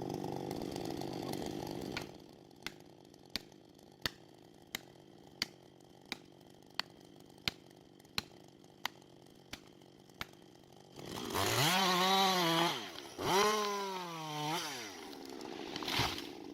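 A chainsaw engine running steadily, then a quieter stretch of sharp knocks, about three every two seconds. About eleven seconds in, the chainsaw revs up and back down twice, the loudest part, and a short thump comes near the end.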